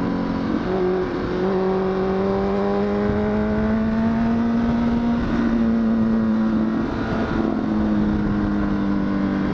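Honda CBR1000RR SC57 inline-four engine running at a steady cruise, its note holding nearly constant pitch, creeping up a little and then easing back, with wind rush over the helmet-mounted microphone.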